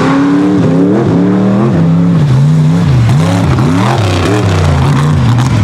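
Mega truck's engine revving hard, its pitch rising and falling again and again as the throttle is worked.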